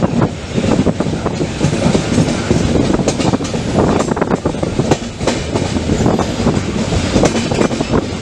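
Express passenger train running on the rails: a steady rumble of the moving coach with irregular clicks and knocks as the wheels pass over the track.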